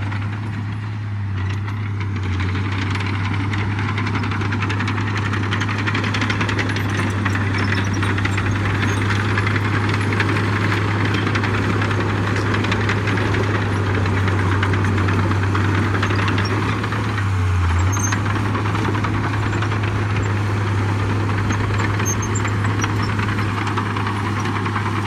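Heavy diesel construction machinery running steadily, with a strong low hum and engine clatter.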